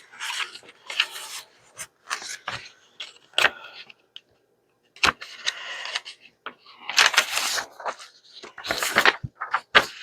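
Sheets of paper being shuffled and handled, with irregular rustles and light taps.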